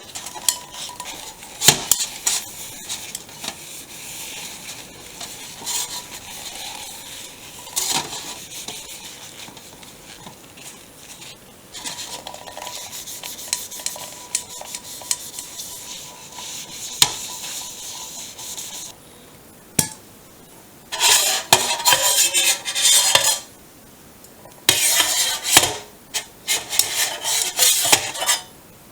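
Soot being rubbed off an anodised aluminium camping cooker with fuel alcohol, the pot scraping and clinking as it is handled. About two-thirds of the way through, two louder spells of harder scrubbing follow.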